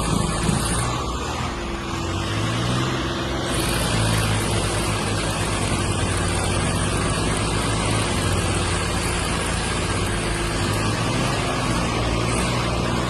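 Heavy diesel engine running steadily; its pitch dips and then rises about two seconds in, then holds at a steady speed.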